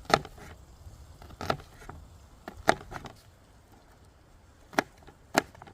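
Knife chopping onion on a cutting board: five sharp chops at uneven spacing, cutting it into chunky pieces.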